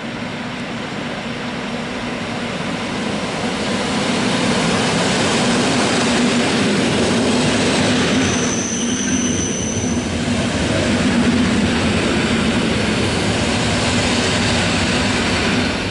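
EN57KM electric multiple unit pulling in alongside the platform, its rolling noise growing louder as it nears and passes. A brief high-pitched wheel squeal sounds about halfway through. The sound stops abruptly near the end.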